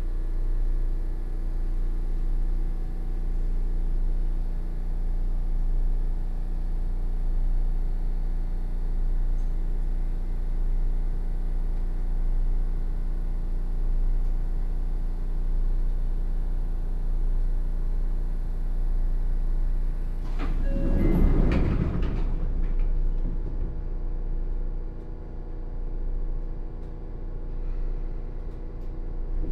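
Inside a Sotetsu 8000 series commuter train car: a steady hum of the car's equipment over a low rumble, then a loud rushing burst of noise about two-thirds of the way through, after which it settles quieter.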